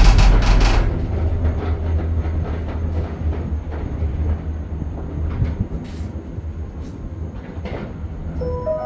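Skyliner gondola cabin riding the cable: a steady low hum and rumble, with a loud rattling clatter in the first second and scattered knocks. Near the end a short series of pitched chime tones sounds, the cabin's announcement chime.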